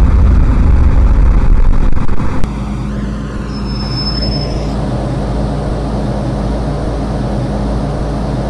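MTR M-Train electric multiple unit running on the line, heard on board: a loud low rumble that drops suddenly about two and a half seconds in to a steady hum, with a brief high whistle around four seconds in.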